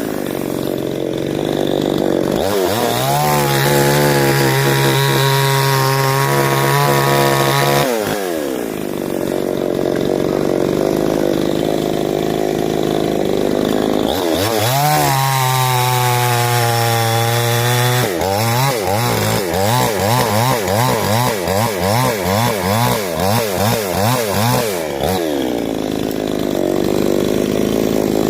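Two-stroke chainsaw engine alternating between idle and high revs. It rises to a steady high pitch about two seconds in and falls back to idle near eight seconds, then revs up again around fourteen seconds. From about eighteen seconds it swings up and down in pitch, roughly one and a half times a second, before dropping back to idle near the end.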